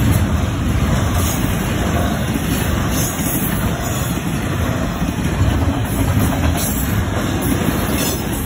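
Norfolk Southern double-stack intermodal freight train rolling past close by: steady, loud wheel-on-rail noise with clickety-clack as the container well cars go by.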